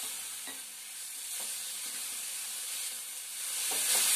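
Chopped onions with crushed garlic and ginger sizzling in hot oil in a metal kadhai, with a metal spatula scraping and stirring them now and then. The frying gets louder near the end as the stirring picks up.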